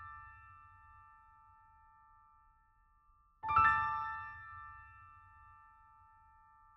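Intro music: a bell-like keyboard chord rings and fades slowly, then is struck again about three and a half seconds in and rings out, over a faint low rumble.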